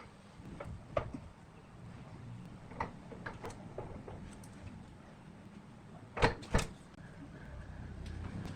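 Scattered knocks and clunks, like wood or tools being set down and handled, with two loud knocks close together about six seconds in, over a low hum.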